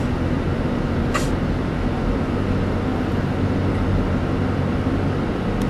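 Road and engine noise inside a moving car's cabin: a steady low rumble, with one brief high-pitched sound about a second in.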